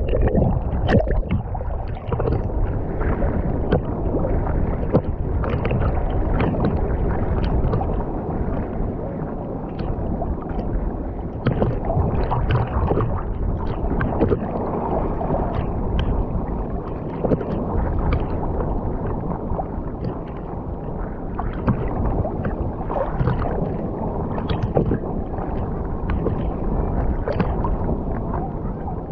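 Underwater ambience as picked up by a submerged camera: a continuous muffled rush of water with many scattered sharp clicks and crackles throughout.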